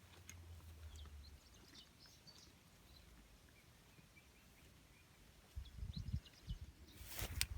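Faint, short bird chirps in a quiet outdoor setting. About five and a half seconds in come low rumbling thumps, and near the end a louder burst of rustling and knocking.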